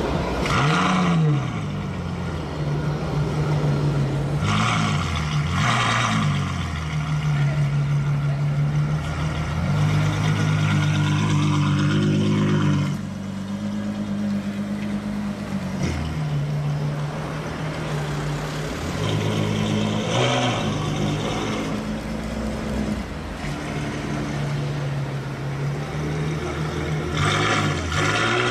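Ferrari F12's 6.3-litre V12 idling and revved in short throttle blips, about five times, each climbing sharply and dropping back to idle.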